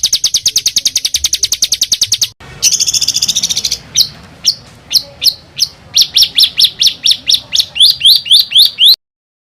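Songbird song made of coarse, rattling 'tembakan' phrases: a fast, tight trill, a brief break, a harsh buzzy phrase, then sharp sweeping notes spaced about half a second apart that speed up into a rapid run. The song cuts off abruptly to silence shortly before the end.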